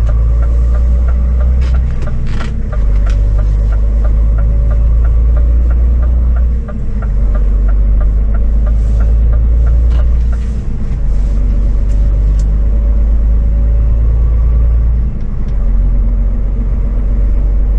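Cab interior of a loaded Scania truck on the move: a steady deep engine and road rumble that shifts in level a few times. During the first half there is a run of quick, even ticks, about three a second.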